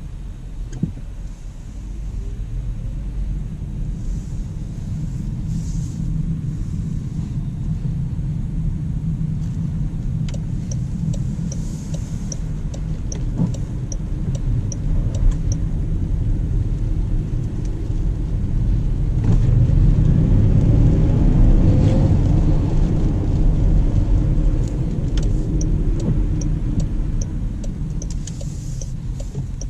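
2019 Jaguar I-Pace electric car driving, heard from inside: a steady low road and tyre rumble that swells louder about two-thirds of the way through, with a faint rising motor whine. A turn-signal indicator ticks evenly in two spells, about a third of the way in and near the end.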